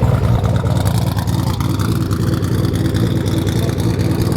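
A car engine running steadily, with a faint whine that rises slowly in pitch through the middle.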